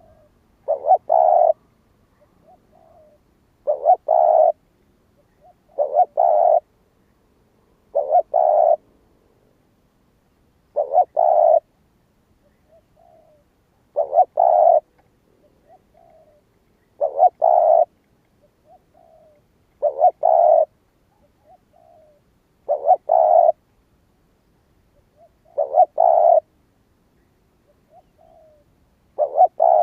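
Spotted dove cooing, the decoy call used to draw wild doves: a phrase repeated about every three seconds, each a loud doubled coo followed by a soft short note.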